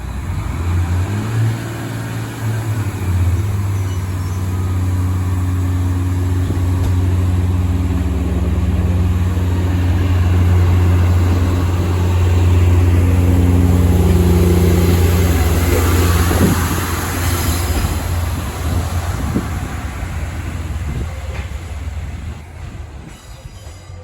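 Diesel locomotive engine running with a steady low drone, growing louder over the first half, then fading away toward the end.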